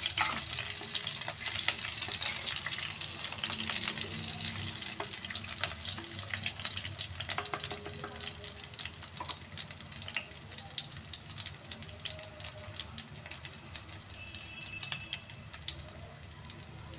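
Chopped green chillies, fenugreek seeds and whole dried red chillies sizzling and crackling in hot oil in an iron kadhai, stirred at times with a wooden spatula. The sizzle slowly dies down.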